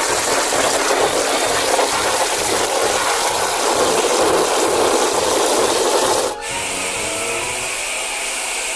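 Steady rushing spray of water from a toy car wash shower pouring over a plastic toy vehicle. About six seconds in it cuts abruptly to a quieter, hissier steady rush.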